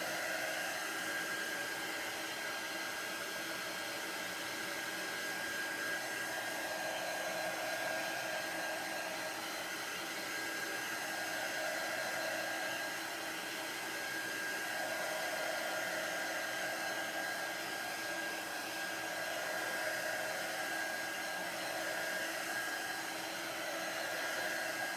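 Embossing heat tool running steadily, a constant blowing hiss with a steady high whine, drying freshly applied chalk paste; its sound swells and eases slightly as it is moved about.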